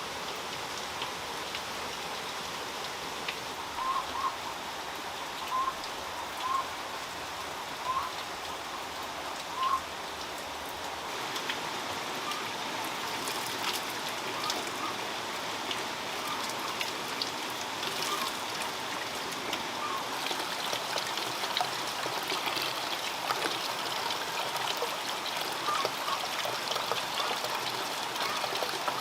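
Steady running water, like a stream or trickle, with about six short high chirps in the first ten seconds. From about eleven seconds in, the water sound grows a little fuller.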